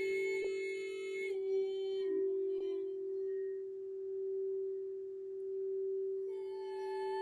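Singing bowl holding one steady, sustained tone with a slowly swelling and ebbing loudness; its higher overtones fade away after about a second and a half and come back near the end as the bowl is sounded again.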